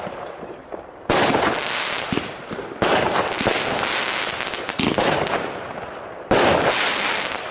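Fireworks going off: three loud bursts, each followed by a dense crackling that fades away over a second or two.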